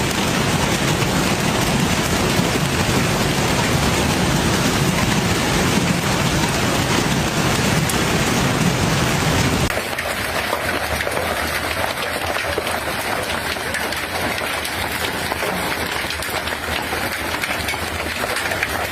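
Hailstorm: hail and heavy rain pelting down on surfaces in a dense, steady rush. About ten seconds in it becomes somewhat quieter and thinner.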